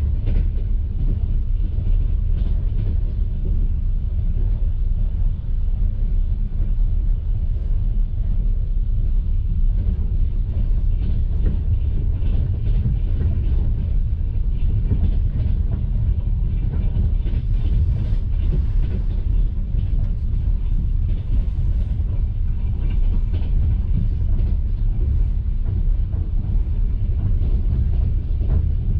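Steady low rumble of a moving passenger railway carriage, its wheels running on the track, heard from inside the compartment.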